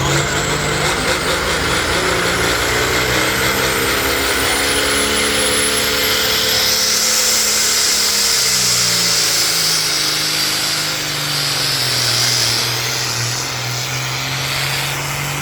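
Pulling tractor's engine running hard under load, its pitch sagging and recovering, with a thin high whine that climbs steadily over the first seven seconds.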